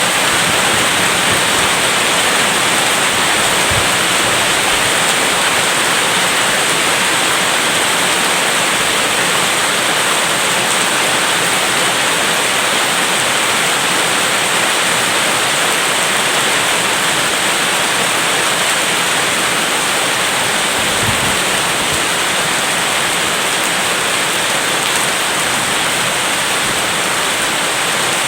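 Steady rain, a loud even hiss with no let-up.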